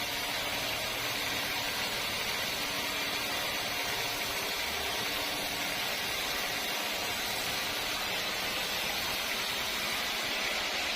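Sawmill machinery running steadily: an even hiss with a faint low hum underneath, unchanging throughout.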